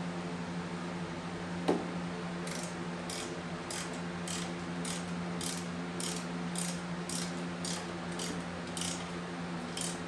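A hand tool being worked in short, quick strokes, about two a second, with a ratchet-like clicking to each stroke. One louder click comes before they start. A steady low hum runs underneath.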